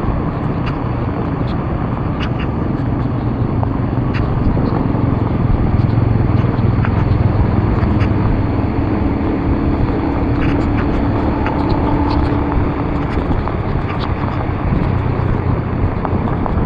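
A vehicle driving on a rain-wet road: steady low engine hum and tyre noise, with scattered small ticks.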